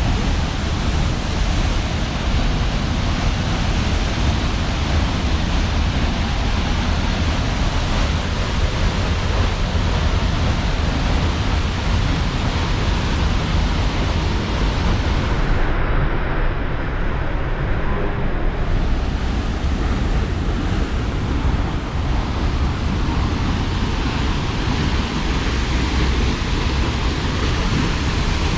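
Waterfall pouring: a loud, steady rushing roar of falling water.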